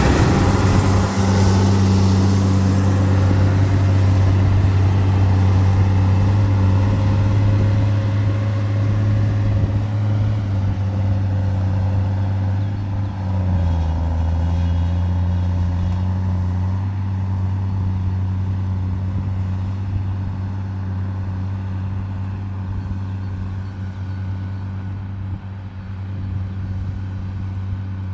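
Tractor diesel engine running steadily with a low, even hum; its pitch dips and settles about halfway through, and the sound grows duller and a little quieter toward the end.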